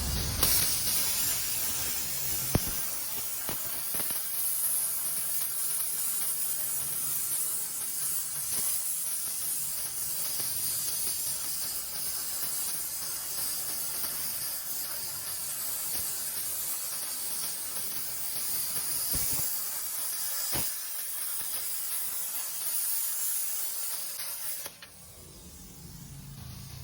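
Jasic CUT 60 plasma cutter cutting metal: a steady, loud hiss of the arc and compressed air, with a few sharp clicks, that cuts off suddenly near the end.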